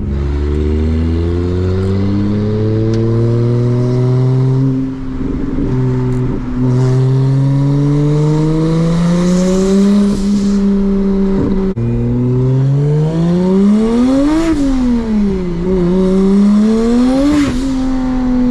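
Single-turbo BMW 335i's N54 inline-six accelerating, its engine note climbing steadily for about ten seconds. After a short break the revs rise sharply and drop back twice near the end.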